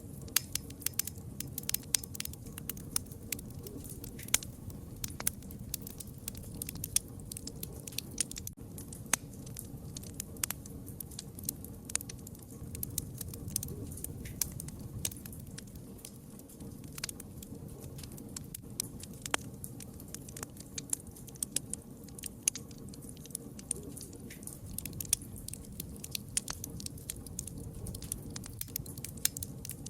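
Campfire crackling, with sharp irregular pops, several a second, over a low steady rumble of burning.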